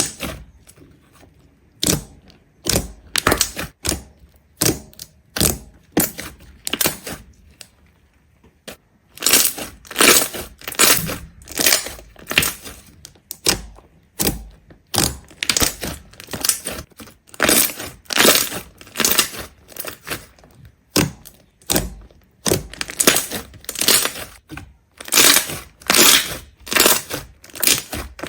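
Repeated crisp crunches of something brittle being crushed, roughly one or two a second, with a short pause about a third of the way in.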